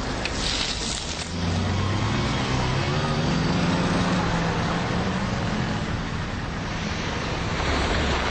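Road traffic: a car's engine and tyres grow louder about a second in and run on steadily for most of the stretch, over a continuous wash of traffic noise.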